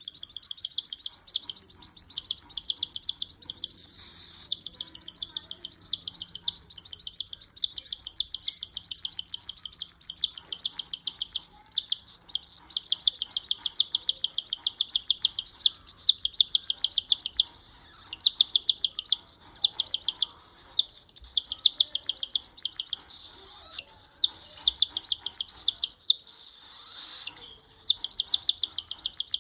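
Cockatiel chick giving its begging call while being hand-fed: rapid, rhythmic high chirps, several a second, in long runs broken by brief pauses.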